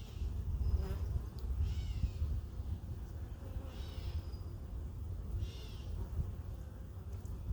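A bird outdoors repeatedly giving a short, high, mewing call that slurs downward, about every two seconds, over a low steady rumble.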